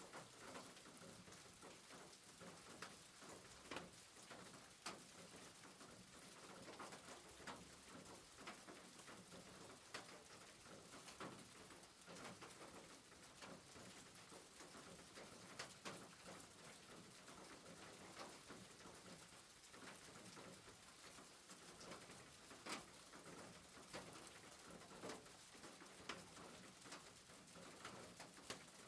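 Rain falling on a rooftop: a faint, steady patter with scattered sharper drop hits.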